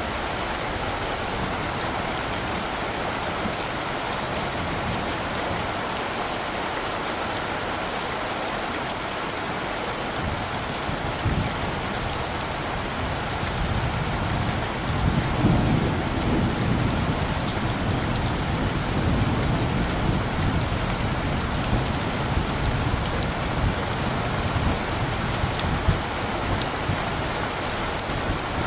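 Steady rain falling, with single drops ticking. A low rumble of light thunder builds from a little under halfway through and keeps rolling.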